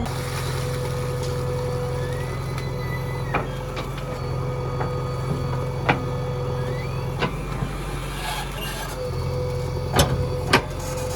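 Diesel engine of a JCB 3DX backhoe loader running steadily, with a handful of sharp knocks, two loud ones close together near the end.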